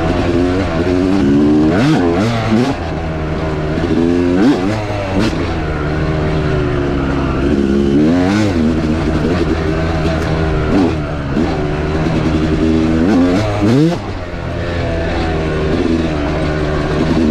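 Dirt bike engine under way, revving up and dropping back over and over as the throttle is worked and gears change.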